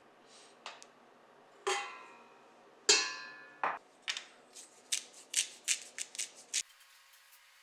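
Kitchenware clinking against a ringing bowl: two hard knocks that ring on after each strike, then a quick run of lighter taps, about four a second, as the mix is worked.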